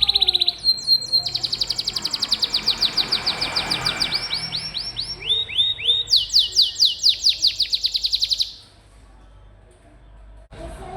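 Domestic canary singing long, fast trills of rapidly repeated high notes, switching between several different rolled phrases. It stops for about two seconds near the end, then starts again.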